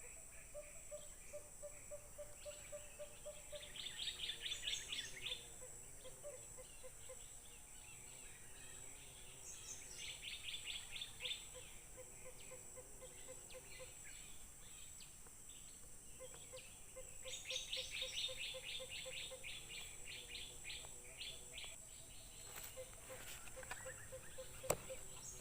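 Bird calls: three bursts of fast repeated notes, over a faint steady high hum. A single sharp click comes near the end.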